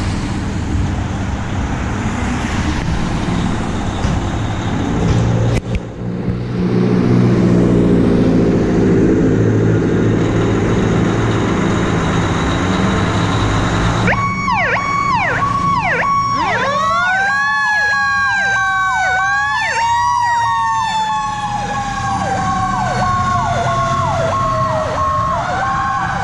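Fire apparatus leaving on an emergency call: a diesel engine runs and pulls hard. About halfway through, an electronic siren cuts in with rapid repeated yelps. A mechanical siren then winds up to a peak and slowly winds down.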